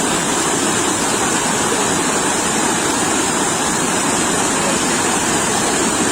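Sea waves surging on the shore, a steady rush of surf.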